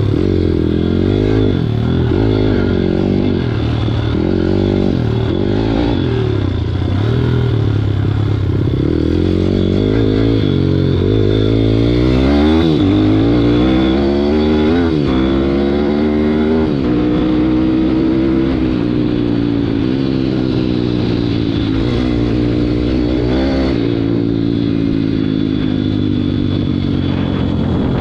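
WPB 160 pit bike's single-cylinder four-stroke engine being ridden hard, its pitch climbing and dropping again and again as the throttle opens and closes through the gears, with several quick rev rises around the middle and a steadier stretch near the end.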